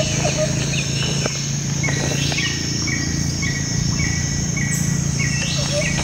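Birds calling over a steady high-pitched insect drone: a short call repeats about twice a second from about two seconds in, with scattered chirps, over a low steady hum.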